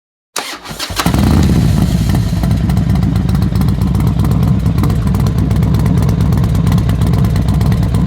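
Motorcycle engine starting: a short burst of cranking, then it catches about a second in and runs steadily and loudly.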